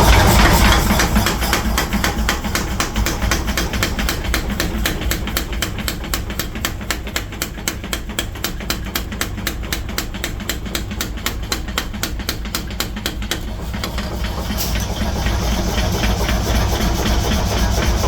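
Forging hammer striking hot steel in a rapid, even rhythm over a steady low machine hum. The blows stop about three quarters of the way through.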